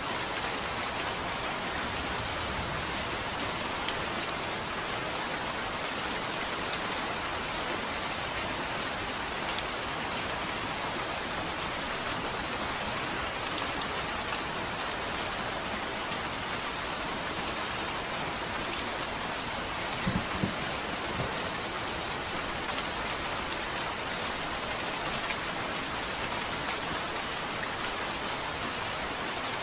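Steady rain falling on a surface, with scattered sharper drop ticks and a brief low knock about two-thirds of the way through.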